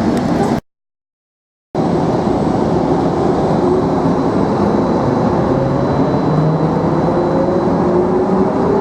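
Cabin noise of the Skylink automated people-mover train running, with its motor whine rising slowly in pitch as it gathers speed. The audio cuts out completely for about a second, half a second in.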